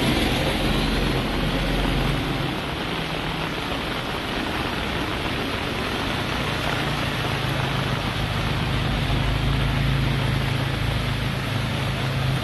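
Heavy tropical-storm rain and running floodwater making a dense, steady hiss, with a steady engine hum underneath.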